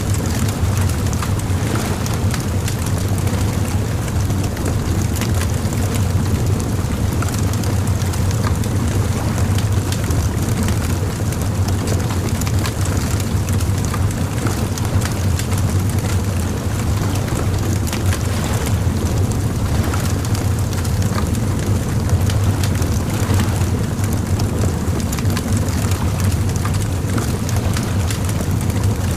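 Bonfire crackling, with frequent small sharp pops over a steady low rumble.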